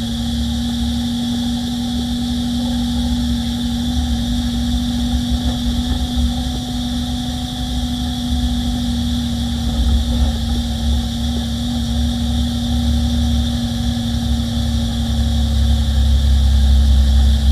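Peterbilt 348 plow truck's diesel engine running steadily: a constant low rumble with a steady droning hum over it.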